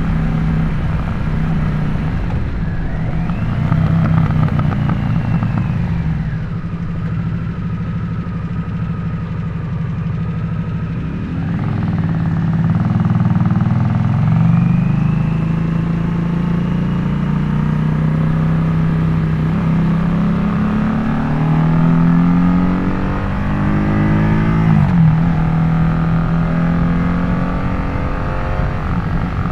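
Harley-Davidson Nightster Special V-twin running through an adjustable Jekill & Hyde exhaust while riding, its note rising and falling with the throttle. From about six seconds in it drops lower and quieter, then picks up again. Near the end the revs climb in several steps and fall away sharply.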